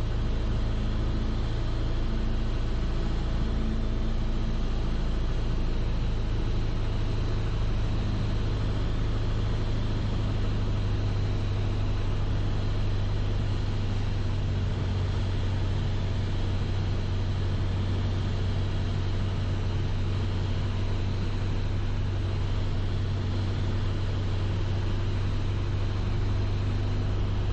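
Steady drone of a Piper Archer's four-cylinder Lycoming engine and propeller on final approach, heard in the cabin through the pilot's headset. The low hum is even throughout, with no change in power.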